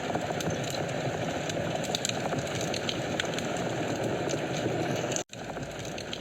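Fireplace fire burning with a steady low rush of flames and frequent small crackles and pops from the wood. The sound cuts out for an instant about five seconds in.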